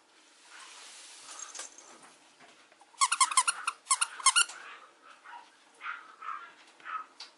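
Mame shiba puppy giving a quick run of about eight short, high-pitched yips about three seconds in, followed by a few softer whines.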